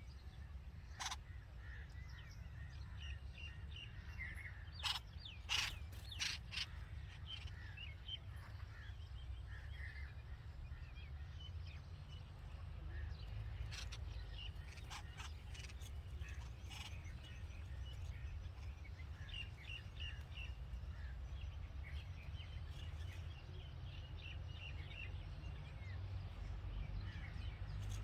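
Red-vented bulbuls chirping around the nest in scattered short calls, with a few louder sharp calls clustered about five to six seconds in, over a steady low background rumble.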